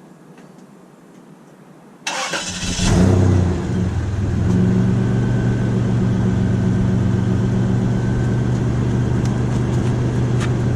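A 1998 Toyota 4Runner Limited's V6 is started about two seconds in. It cranks briefly, catches with a flare of revs, then settles into a steady idle through the stock muffler.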